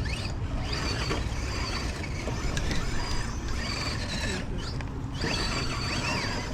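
Small electric motors and gear trains of 1/10-scale RC rock crawler trucks whining in short bursts that rise and fall in pitch with the throttle as they crawl over rock, over a steady low rumble.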